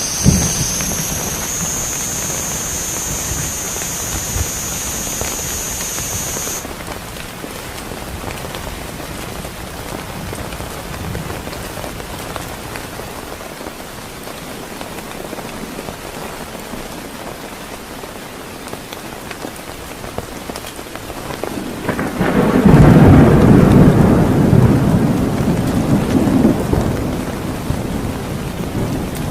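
Heavy rain falling steadily, with a sharp crack at the very start. A high, steady whine runs for the first six seconds and then stops. About three-quarters of the way in, a long roll of thunder swells to the loudest point and then slowly fades under the rain.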